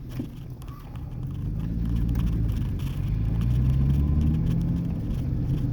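2003 Ford Ranger's 4.0L V6 running through a muffler-deleted exhaust with its catalytic converters still on, as the truck pulls: a deep drone that builds over a couple of seconds and then eases off a little.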